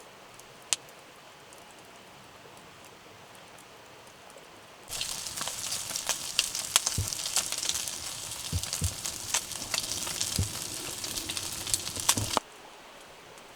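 Faint steady background with a single tick, then about five seconds in a loud sizzling with many pops and crackles, like food frying in a hot pan, which starts abruptly and cuts off abruptly near the end.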